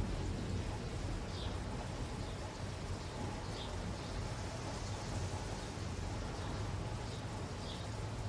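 Steady rain falling, with a low rumble underneath and a few short, high chirps.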